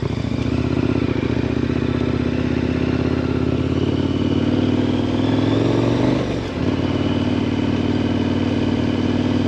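KTM 1090 Adventure R's 1,050 cc LC8 V-twin engine running under throttle, its pitch slowly climbing, then dropping briefly about six seconds in before holding steady again.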